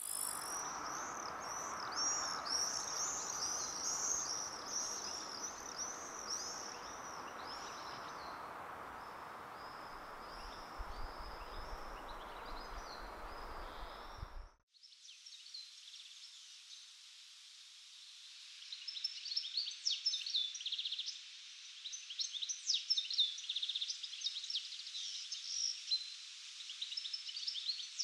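Birds chirping over a steady rushing background for about the first half. This cuts off abruptly, followed by a different stretch of quicker, sharper bird chirps and trills.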